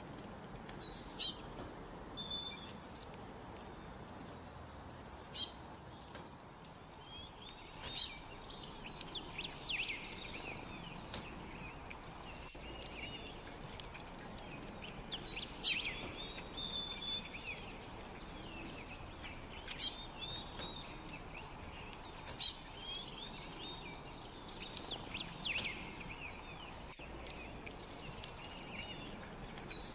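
Wild birds singing: short, high-pitched chirps and trills come every few seconds, with softer twittering between them over a faint steady hiss of background noise.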